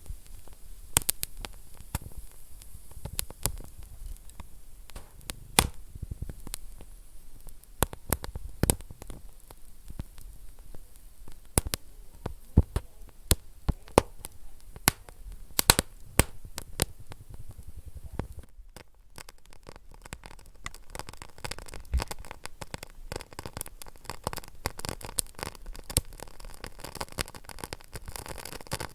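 Wood fire in a fireplace crackling, with many sharp, irregular pops over a low rumble. About two-thirds of the way through it briefly dips, then carries on with more hiss and smaller, denser crackles.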